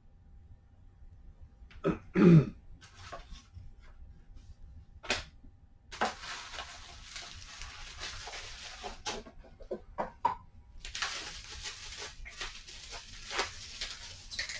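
One cough about two seconds in, then stretches of crackly rustling and crinkling of packaging with small clicks and taps as items are unpacked by hand.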